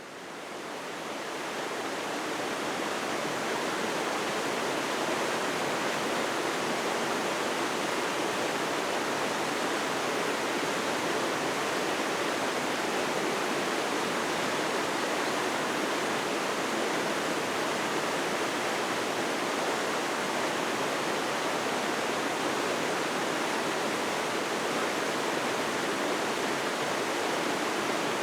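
Steady, even rushing noise with no rhythm or distinct events, fading in over the first two seconds.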